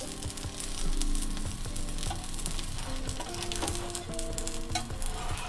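Stuffed paratha sizzling in ghee on a hot iron tava: a steady frying hiss with many small crackles and pops.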